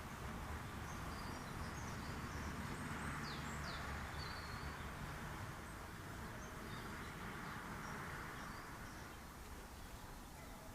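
Steady outdoor background noise that swells and then eases off, with a few faint, short, high bird chirps in the first half.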